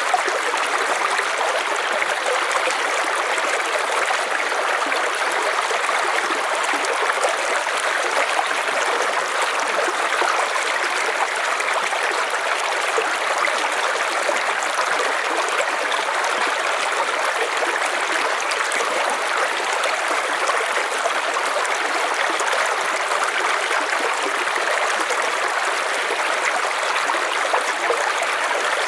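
River water flowing, a steady rushing and trickling.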